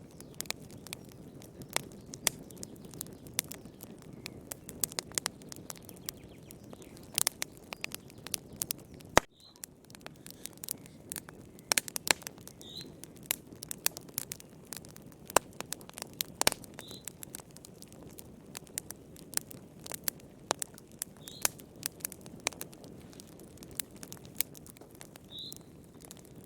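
Wood fire burning in a fireplace: a steady low rustle of flames with irregular sharp crackles and pops, the loudest single pop about nine seconds in. A faint short high chirp sounds every few seconds.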